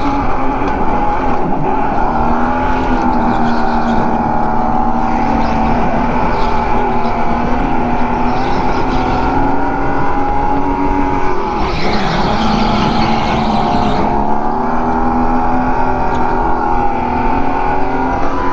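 Go-kart motor running continuously on track, a steady whine that rises and dips a little with speed, with a brief rush of noise about twelve seconds in.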